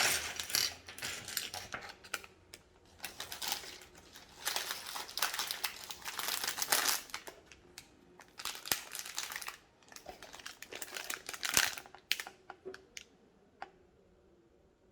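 Plastic LEGO parts bags crinkling and rustling as they are handled, mixed with small clicks. Near the end it drops to a few faint clicks.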